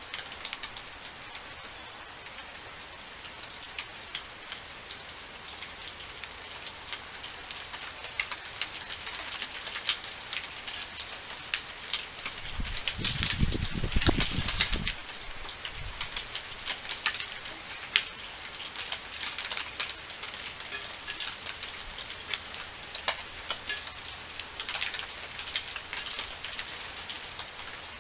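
Steady rain with many sharp drop clicks on a nearby surface. About halfway through, a low rumble swells for a couple of seconds.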